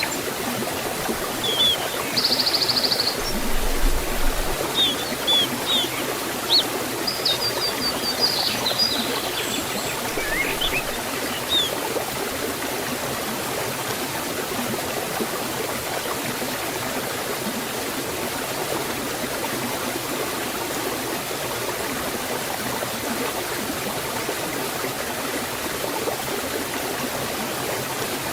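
Steady rush of water from a forest waterfall and stream. Birds chirp in short high calls, with a brief trill, through the first dozen seconds, then only the water is left.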